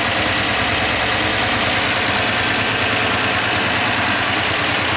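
1962 Dodge Dart's slant-six engine idling steadily, heard up close under the open hood.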